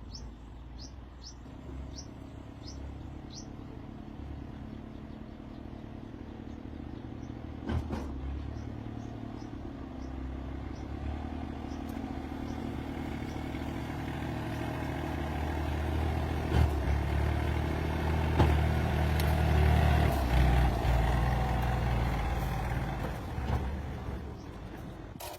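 A motor vehicle's engine running with a low rumble that grows steadily louder and then eases off near the end. Birds chirp briefly in the first few seconds.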